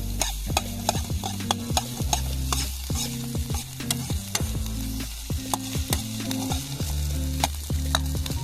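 Fried rice being stir-fried in a pan: a spatula clicks and scrapes against the metal many times over a steady sizzle. A low background music line runs underneath.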